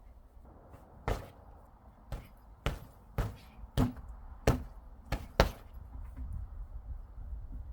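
About eight sharp, separate impacts at uneven intervals, one every half second to second, the last two coming close together and the loudest.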